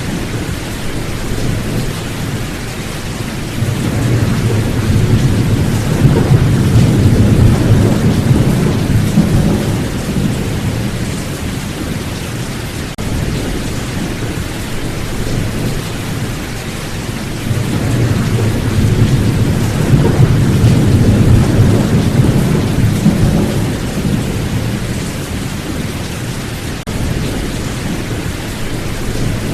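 Steady heavy rain with thunder rumbling low and long twice, each roll swelling and fading over several seconds.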